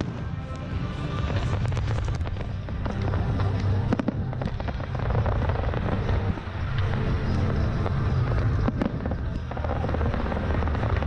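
Fireworks banging and crackling, with sharp reports about four seconds in and near nine seconds in, over music with a steady bass.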